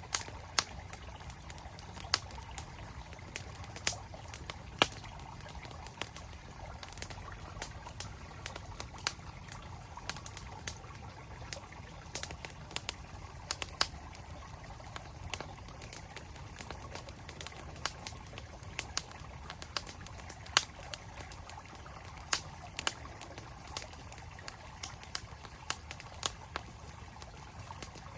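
Wood campfire crackling, with frequent sharp, irregular pops, over the steady rush of a flowing mountain stream.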